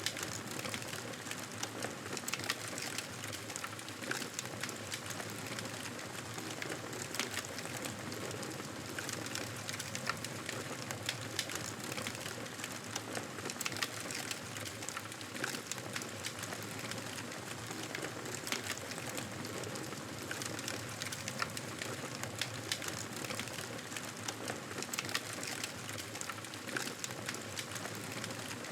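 Wood fire crackling steadily, with frequent small pops and snaps over a constant hiss of burning.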